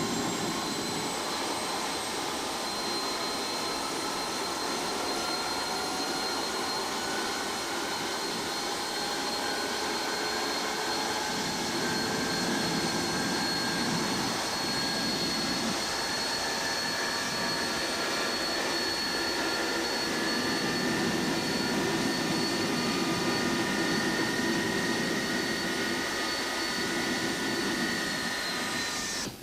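Bristol Olympus turbojet of an Avro Vulcan whining as it is turned over, with several tones climbing slowly in pitch as it spools up. It is being dry-motored on its air-start motor, with ignition off and the throttle closed. The sound cuts off suddenly at the end.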